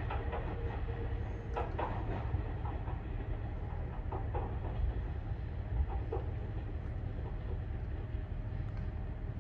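Distant local train approaching the station, heard as a steady low rumble with a few faint clanks from the rails.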